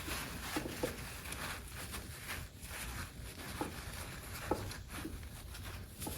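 Rustling, light clicks and knocks of hands working on a box fan's motor with paper towels, with a few short squeaks scattered through.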